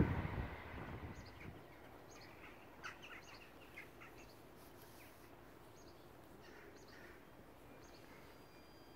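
The noise of a train fades out in the first second, leaving quiet outdoor background with scattered short chirps of small birds.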